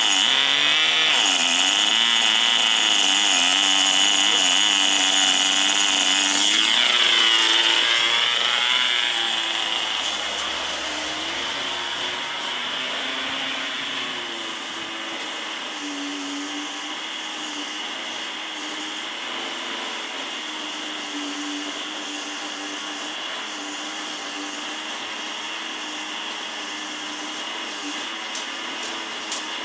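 Tamiya TGS 1/10 nitro RC car's small two-stroke glow engine running at high revs. It is loud and high-pitched for the first several seconds, sweeps in pitch as the car passes about seven seconds in, then sounds quieter as the revs rise and fall.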